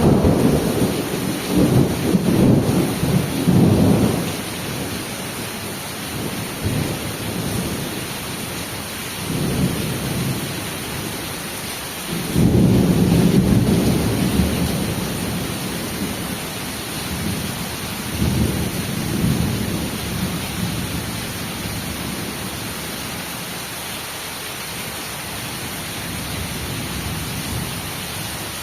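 Thunderstorm: steady heavy rain falling, with rolling thunder rumbling several times. The loudest rumbles come at the start and about twelve seconds in, with smaller ones around ten and nineteen seconds.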